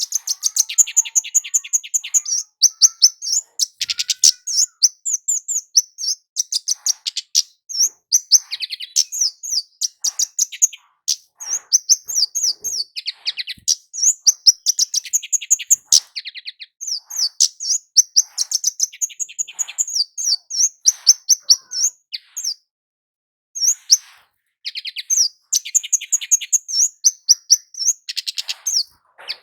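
A kemade jawa flowerpecker singing in long, rapid runs of high, thin, sharp chips and twitters, with a brief break about two-thirds of the way through.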